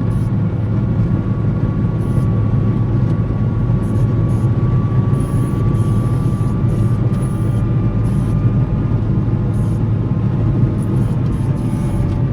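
Volvo L70C wheel loader's diesel engine running steadily under load while plowing snow, with a thin steady whine above the engine note.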